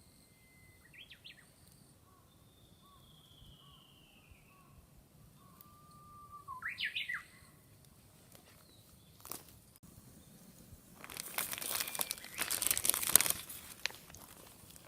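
Wild birds chirping in short bursts, with one falling whistled note, against a quiet garden background. About eleven seconds in, a loud crackling, hissing burst lasts two to three seconds, then dies away.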